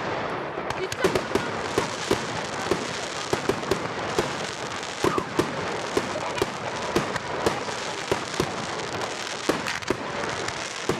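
Fireworks going off continuously: a dense crackle with many sharp, irregular bangs and pops, some louder than others, with voices mixed in.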